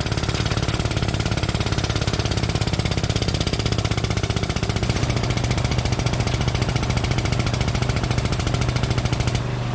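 Hydraulic pump of a frame-straightening puller running under load as the chain pulls on the damaged front end: a fast, steady chatter that stops near the end, over a low steady engine hum.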